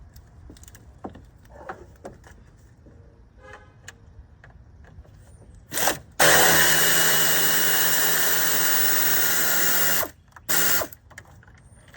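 Cordless power drill-driver spinning out an 8 mm cooling-fan mounting bolt: a short blip about six seconds in, a steady run of about four seconds at an even pitch, then another short blip. Light clicks of the socket and tool come before it.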